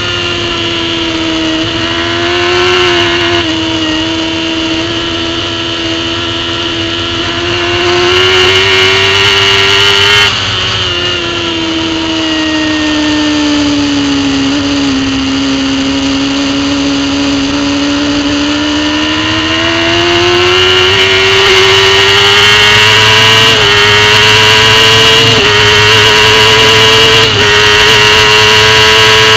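Racing superbike engine heard from an onboard camera at high revs on the track. About ten seconds in the revs drop sharply and sink slowly. Then they climb steadily again, with a couple of brief breaks near the end.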